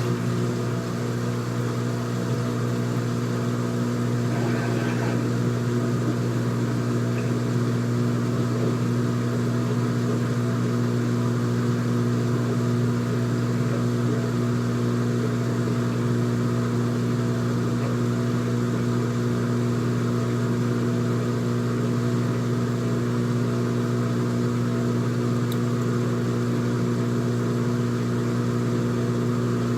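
Front-loading washing machine running with a steady, even motor hum and no pauses or changes in speed.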